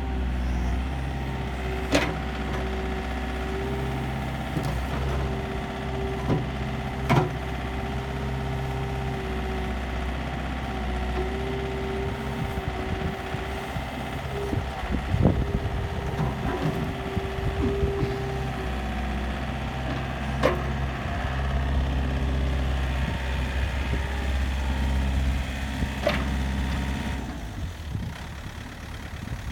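Komatsu PC50UU-2 mini excavator's diesel engine running steadily while it is worked, with a tone that comes and goes and several sharp knocks spread through. It gets a little quieter near the end.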